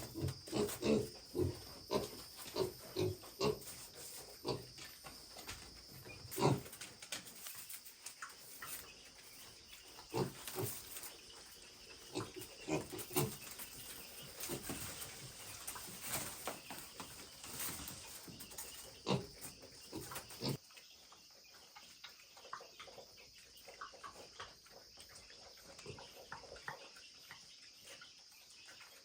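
Pigs grunting, many short grunts one after another for about twenty seconds, then fewer and fainter.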